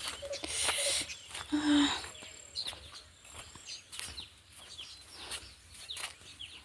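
Small birds chirping in bush, with two bursts of rustling and footfalls in the first two seconds as someone pushes through vegetation.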